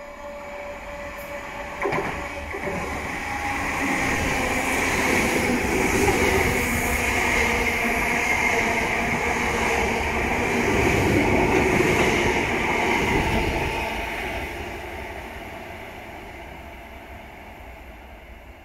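Electric multiple-unit passenger train running along the platform on overhead-wire electric track. It grows louder as it approaches, is loudest for several seconds as it passes, with a steady whine over the rumble, then fades away.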